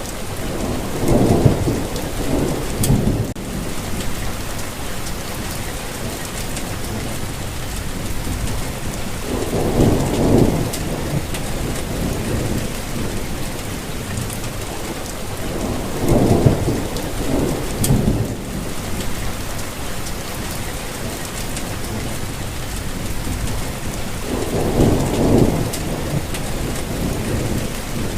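Steady rainfall with four low rolls of thunder, about one every seven to eight seconds.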